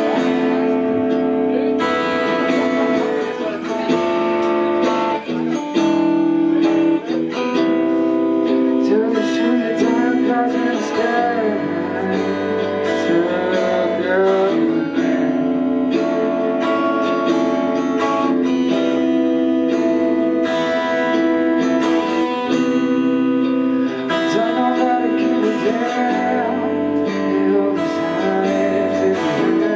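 Live band playing a slow song, with guitars to the fore and sustained notes, some of them bending in pitch.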